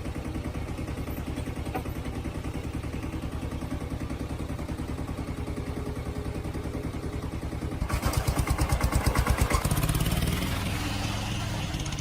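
Old diesel truck engine running steadily with a regular beat, then revving up about eight seconds in and holding at higher speed.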